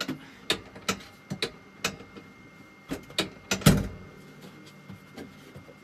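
Tractor cab seat adjustment being worked: a run of sharp clicks and knocks, about a dozen, with one heavier thump a little past the middle.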